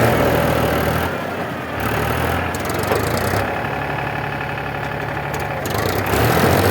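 Tractor diesel engine running steadily, growing a little quieter about a second in and louder again near the end.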